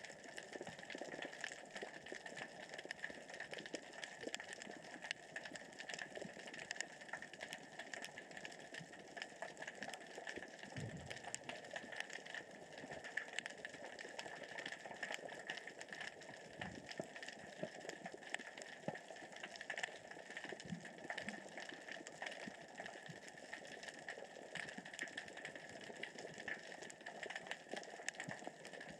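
Underwater crackle and clatter of small rocks rolling across the sea floor as the current and tide move them: a dense, steady patter of fine clicks. A few brief low sounds stand out about a third of the way in and again past the middle.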